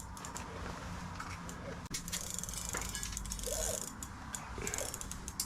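Fishing reel clicking rapidly in a fast, even run of ticks.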